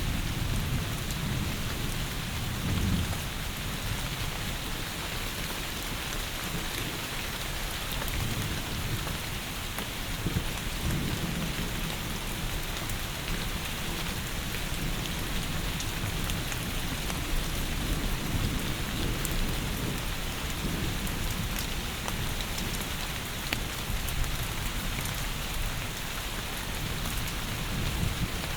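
Heavy rain falling steadily, a dense even hiss, with a low rumble underneath that swells and fades.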